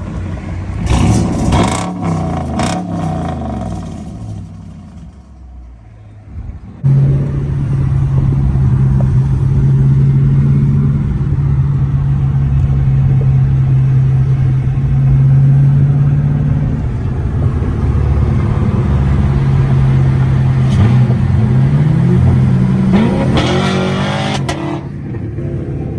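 Dodge Charger's 5.7 Hemi V8 with muffler and resonator deleted, its exhaust loud and open. It is revved about a second in and falls away. From about seven seconds in it runs at a steady loud drone that sags lower, and near the end it revs up once more.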